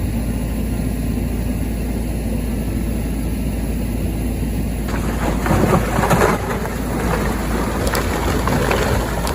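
A vehicle's steady low rumble mixed with wind noise on the microphone. About halfway through it gets louder, with rising and falling pitched sounds.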